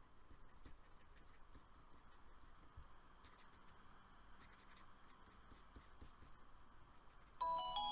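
Stylus scratching and tapping quickly on a drawing tablet, faint and hurried. Chime-like music notes come in near the end.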